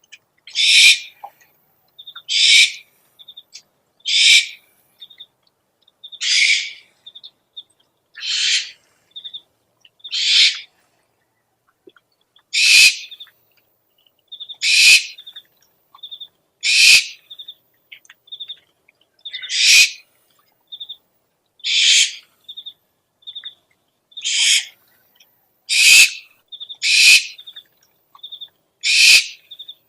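Owl screeching: a harsh, hissy screech of about half a second, repeated roughly every two seconds, with short high trilled notes between the screeches.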